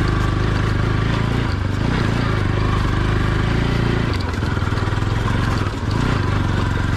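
Motorcycle engine running steadily on the ride, with a brief dip in level a little before the end.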